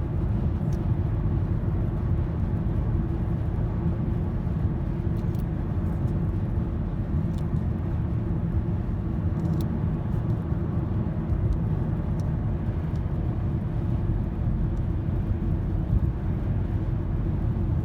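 A car being driven, heard from inside: a steady low rumble of engine and road noise.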